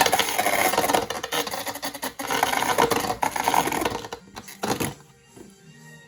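Anime sound effect of a launched Beyblade spinning top whirring and scraping, a rasping grind for about four seconds. A sharp hit comes just before the five-second mark, then it goes quiet.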